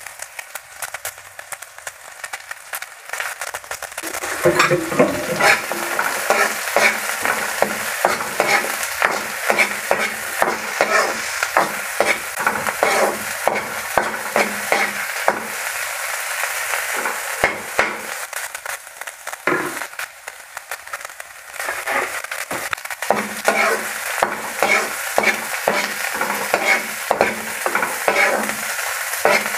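Chopped onion, garlic and spring-onion whites sizzling in sesame oil in a nonstick pan, with a utensil scraping and tapping on the pan as they are stirred. The frying and stirring get louder about four seconds in.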